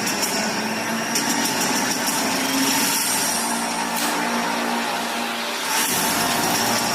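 An engine running steadily with a hissy, high-pitched drone; a steadier low hum joins about three seconds in and drops away just before six seconds.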